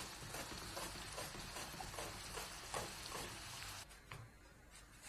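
Thin raw-banana chips sizzling faintly in hot oil, with light irregular clicks as a wire-mesh skimmer stirs and lifts them. The sound drops away almost to silence about four seconds in.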